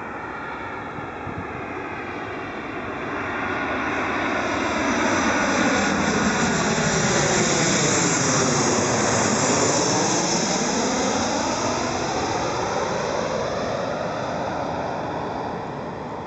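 Jet airliner flying past: its engine noise swells to a peak about halfway through, with a sweeping whoosh as it passes, then fades away.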